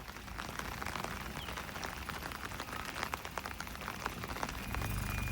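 Steady rain pattering, with many sharp, close drop ticks. A low car-engine rumble swells up near the end.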